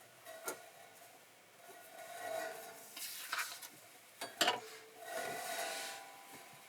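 Handling noises: a few sharp clicks and knocks among short bursts of scraping or rustling.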